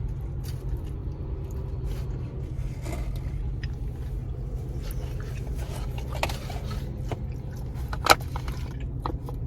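Eating sounds: scattered small clicks and crunches from biting and chewing a hard, overcooked pizza crust, with one sharper click about eight seconds in, over a steady low hum.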